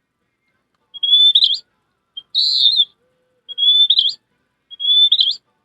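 Four short, high whistled bird-call phrases about a second apart. Each is a steady note that ends in a quick upward flourish or a warbled burst, with silence between them.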